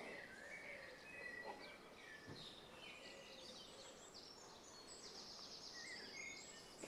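Faint birdsong: small birds chirping, with a fast trill in the second half, over quiet outdoor background noise.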